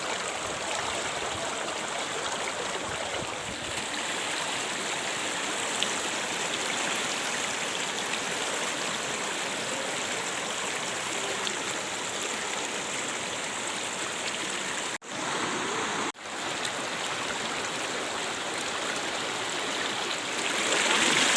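Steady rush of flowing water at a waterfall and its mountain stream. The sound drops out briefly twice, about 15 and 16 seconds in, then grows louder near the end.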